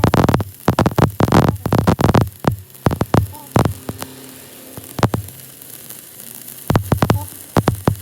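Rapid series of sharp knocks, about four a second, thinning out after two and a half seconds into a few scattered strikes, with a quick cluster near the end.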